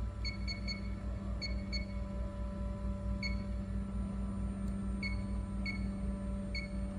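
Steady machine hum with a low throb pulsing several times a second. Over it come about nine short, high-pitched electronic beeps at irregular intervals, in a cluster in the first two seconds and then scattered singly.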